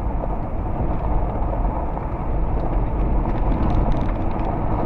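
Steady road and engine noise inside the cabin of a moving vehicle, a low rumble that holds even throughout.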